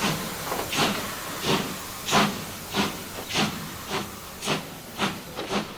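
Steam locomotive exhaust chuffing at a slow, steady beat, a hissing puff about three times every two seconds.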